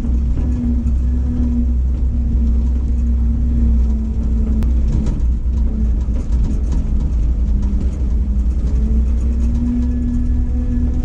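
Ford F700 truck's 370 cubic-inch gasoline V8 with a 4-barrel carburettor running steadily at a low, even speed, with a deep rumble and a steady hum that wavers slightly in pitch. The owner says this engine has an exhaust manifold leak.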